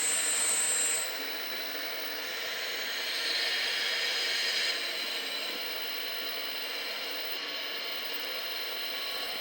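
Radio-controlled model machinery running: a thin, high-pitched electric whine for the first second, then a steady hiss, louder from about three to nearly five seconds in.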